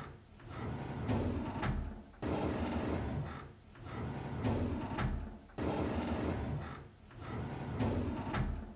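A drawer sliding open on its runners: a rumbling slide that starts suddenly and ends in a sharp knock as it stops. It repeats about every three and a half seconds, close to three times.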